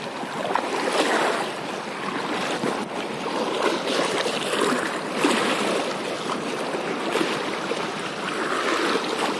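Sea water washing and splashing over rocks, in swells that rise and fall every second or two.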